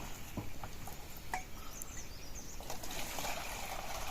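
Steady outdoor rushing noise, like running water, with a few light clicks and a brief high bird chirp about two seconds in.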